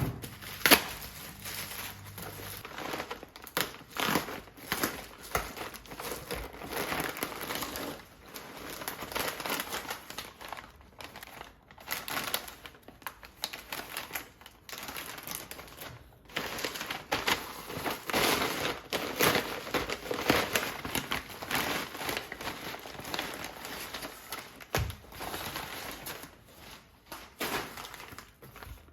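Packaging crinkling and rustling as it is handled, with irregular crackles and sharp clicks.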